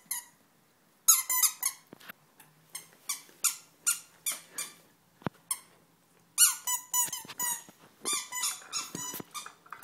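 Dog biting down on a squeaky sausage-shaped toy, setting off runs of quick, high squeaks in four bursts, with one sharp click about halfway through.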